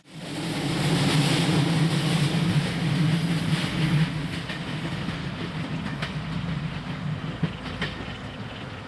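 Taiwan Railway train passing: a steady engine hum with wheel noise that fades from about four seconds in, and a few sharp rail clicks near the end.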